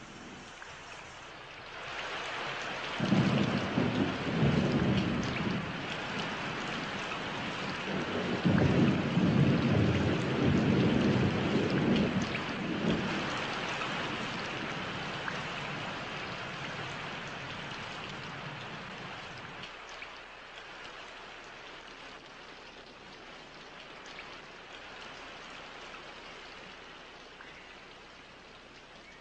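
Heavy tropical rain with two long rolls of thunder, the first about three seconds in and the second about eight seconds in. The rain slowly eases off toward the end.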